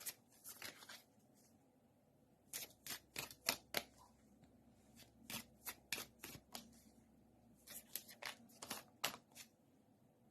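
Romance Angels oracle cards being shuffled by hand: four short flurries of quick, faint card clicks with brief pauses between them.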